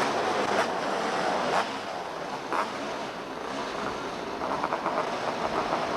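Engines of small open-wheel race cars (quarter midgets or mini sprints) running on the track, heard through a steady rush of noise, with a few short knocks in the first half and a quick run of pulses near the end.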